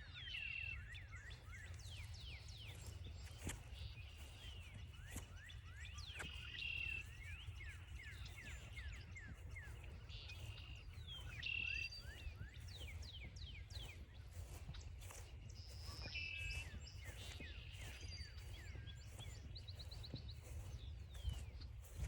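Several songbirds calling, with many quick, sweeping chirps and a few short, steady whistled notes, over a steady low rumble.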